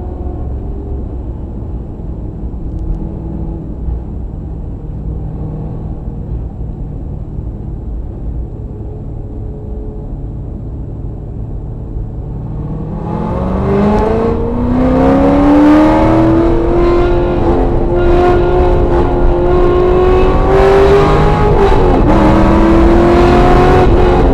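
Sports car engine running at a steady low cruise, then accelerating hard about halfway through. The revs climb and hold high, with rushing wind noise, and dip briefly a few seconds before the end.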